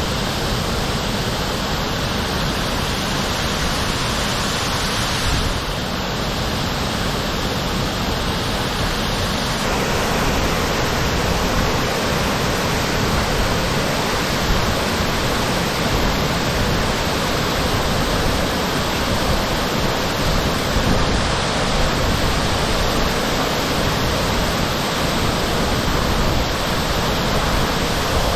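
Steady rush of Iwatsuka Falls, the waterfall pouring into its pool, with slight shifts in tone about five and ten seconds in.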